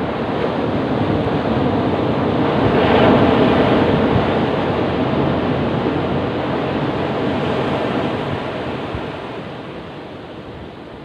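Ocean surf: a wave breaks and rushes in, building to its loudest about three seconds in, then slowly washes out and fades near the end.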